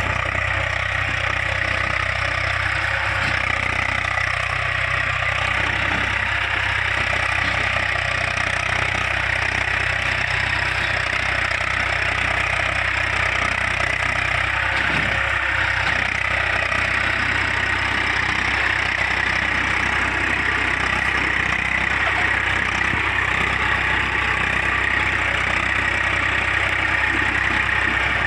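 Eicher 380 tractor's diesel engine idling steadily while the tractor stands still.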